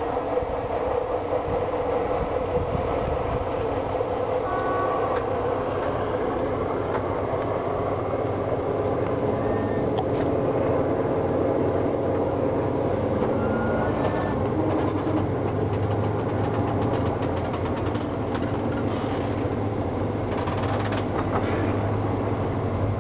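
Thai rapid train 134 rolling into the station, heard from aboard: steady running rumble and clatter of wheels on the rails, with runs of quick clicks and a few short high squeals from the wheels or brakes.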